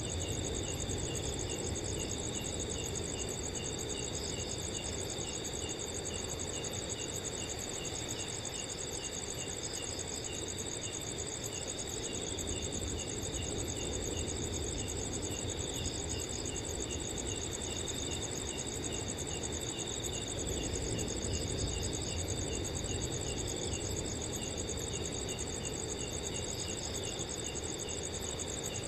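Several crickets calling at once at different pitches: a high continuous trill and a steady tone, with a regular chirping of about three chirps a second, over a low, steady wind.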